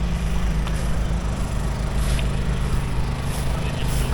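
A small engine running steadily at idle, a low even hum.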